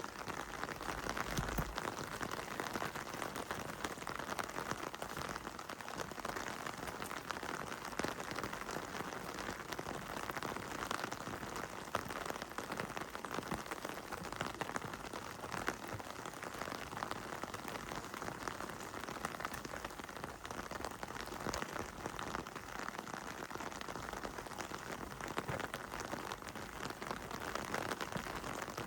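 Heavy rain falling steadily, a dense hiss with countless sharp drop patters on hard surfaces.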